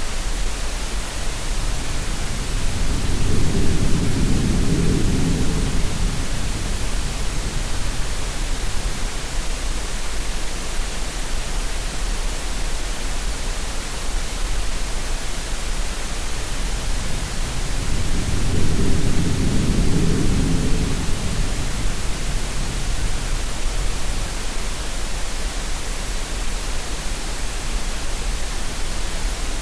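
Steady green-noise hiss mixed with sea sounds. Two low swells of surf rise and fall in it, one a few seconds in and another just past the middle.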